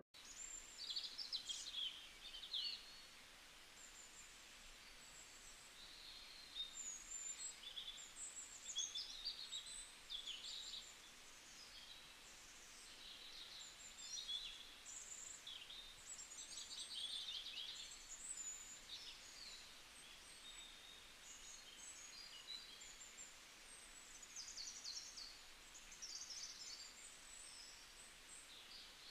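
Faint birds chirping: many short, high chirps and twitters on and off, over a low background hiss.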